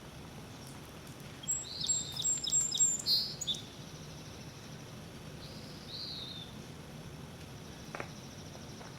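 A bird sings a quick run of high chirps about two seconds in and gives one more call near six seconds, over a steady background hiss. There is a faint click near the end.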